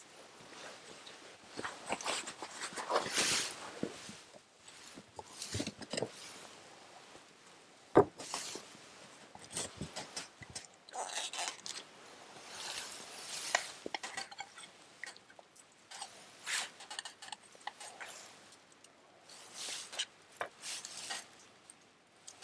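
Irregular handling noises of outdoor cooking: utensils and dishes clinking and rustling, with one sharp knock about eight seconds in.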